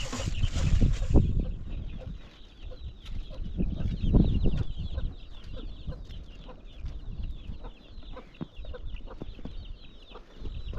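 Poultry clucking: many short, high calls in quick succession, over low thumps and rumbling that are loudest near the start and about four seconds in.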